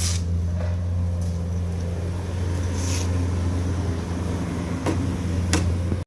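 An engine running steadily with a deep, even hum, with a couple of sharp knocks near the end.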